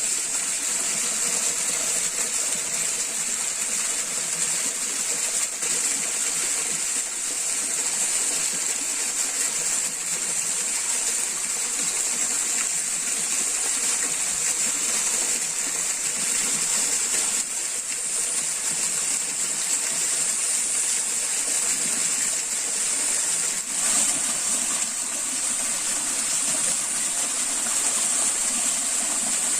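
Steady rush of flowing water from a stream, unbroken, with a constant high-pitched hiss on top.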